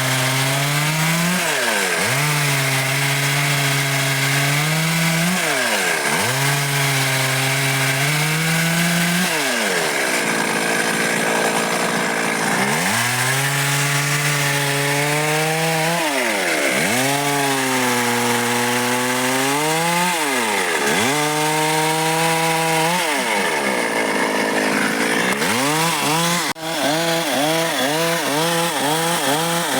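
Stihl MS 382 two-stroke chainsaw cutting dry wood, its engine note sagging as the chain bites and climbing back between cuts, over and over. Near the end the pitch wavers quickly up and down, about twice a second.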